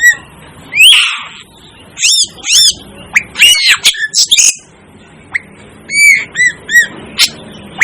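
Asian glossy starling giving short, sharp, squawking calls in irregular bursts, some strung together in quick runs of three or four, with brief pauses between.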